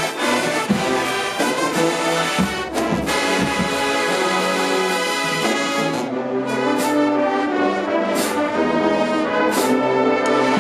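HBCU marching band brass section playing, with trombones and trumpets holding sustained chords and cymbal crashes about every one to one and a half seconds in the second half.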